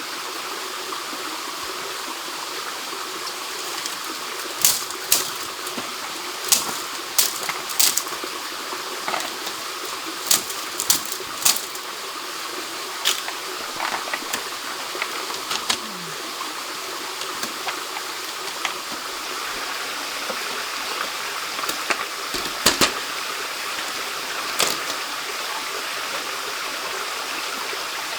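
Steady rush of flowing stream water, with scattered sharp clicks or knocks, most of them between about five and twelve seconds in.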